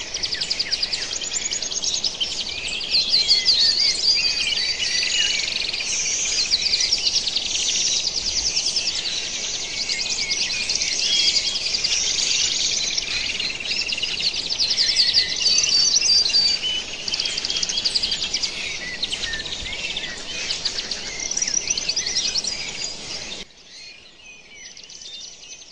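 Dense chorus of many songbirds chirping and trilling over one another, high-pitched and loud; near the end it drops abruptly to a fainter background of a few chirps.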